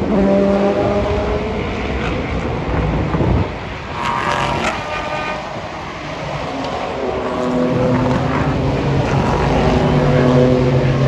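Race car engines running hard as cars go past one after another. A higher-pitched engine passes about four seconds in, and a deeper engine builds again near the end.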